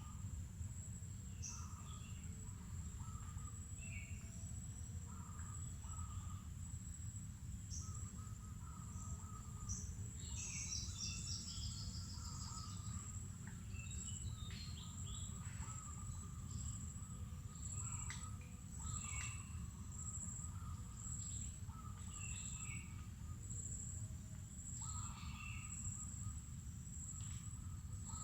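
Mangrove forest ambience: an insect's steady, high-pitched, faintly pulsing buzz runs throughout, with many short bird chirps and calls scattered over it and a brief busy flurry of chirps about ten seconds in. All of it sits over a constant low rumble.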